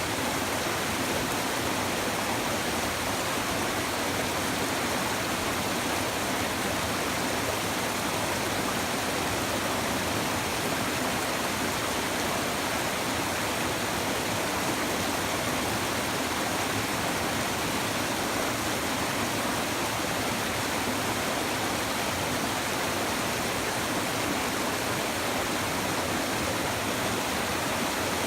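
Shallow river babbling and rushing steadily, an even, unbroken water noise.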